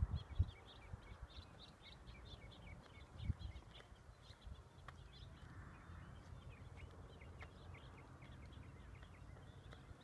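Small birds chirping in quick repeated high notes, fairly quiet, with a few low thumps near the start and about three seconds in.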